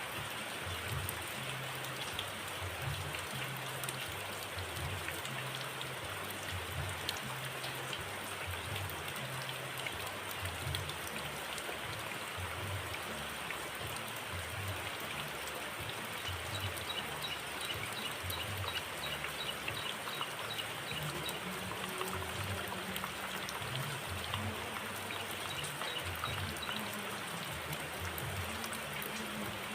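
Steady background water noise with a faint, rapid series of high ticks from about the middle to near the end.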